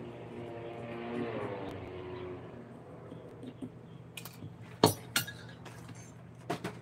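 Four sharp clinks of hard objects knocking together in the second half, the loudest about five seconds in.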